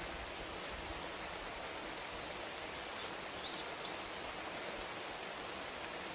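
Steady rain falling, with about four faint, short bird chirps around the middle.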